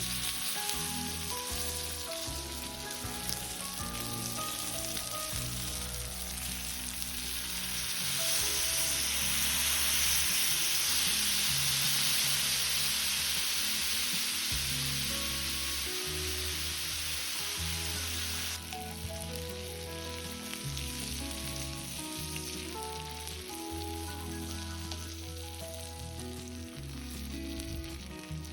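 Food frying with a steady sizzle that grows louder for about ten seconds in the middle, under background music with a bass line.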